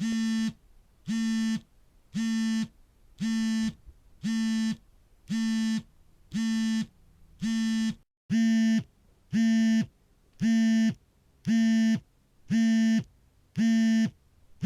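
Smartphone vibration motor buzzing in a steady on-off pattern for an incoming call: short buzzes of about half a second, roughly one a second. The buzzes get a little louder after a brief break about eight seconds in.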